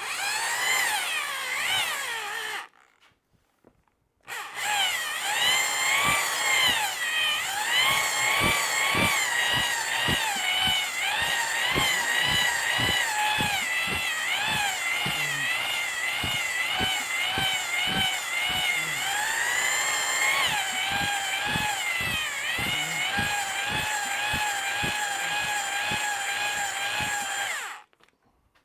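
Power drill spinning a cylinder hone inside an outboard engine's cylinder bore, enlarging it to oversize. It gives a squealing whine that wavers in pitch, with a rapid run of clicks. A short burst of about two and a half seconds, a pause, then a long continuous run that stops near the end.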